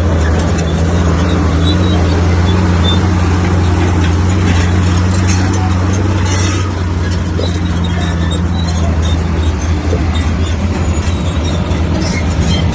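Bulldozer's diesel engine running steadily and loud, with scattered metallic clanks around the middle and a slight change in engine note near the end.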